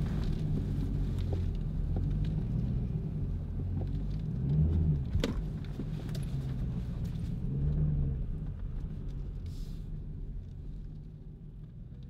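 Dodge Challenger SRT Hellcat's supercharged 6.2-litre V8 running, swelling briefly twice, about four and a half and eight seconds in, then slowly getting quieter toward the end. A single sharp click about five seconds in.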